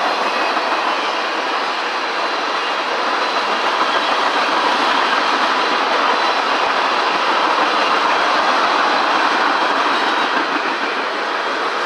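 Freight train's tank cars and gondolas rolling past close by: a steady, loud noise of steel wheels running on rail.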